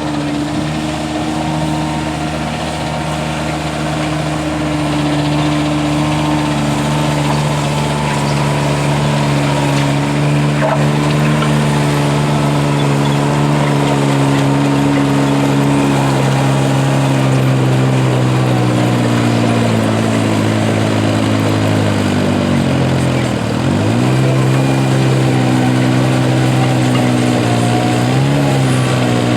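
Garden tractor engine running steadily at high revs, its pitch slowly sagging. About 23 seconds in it dips sharply and recovers, then rises briefly again near the end.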